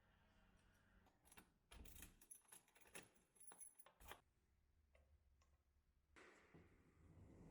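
Faint, quick clicks and light clinks of small hard objects being handled, then a soft steady hiss starting about six seconds in.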